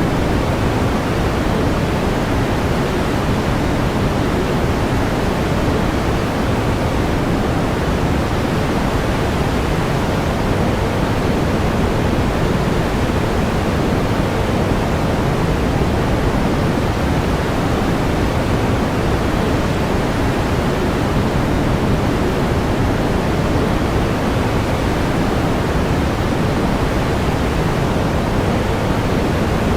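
Steady pink noise: an even, unchanging hiss, heavier in the low end than the high.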